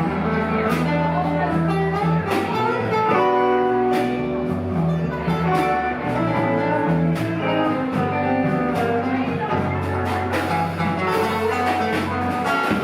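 Live rock band playing an instrumental jam: guitar lines over steady bass notes and a regular drum beat.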